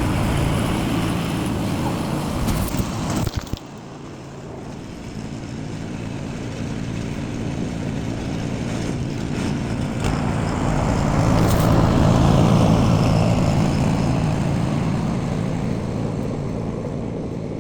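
An engine running steadily, cutting down abruptly about three and a half seconds in, then swelling to its loudest about twelve seconds in and fading again.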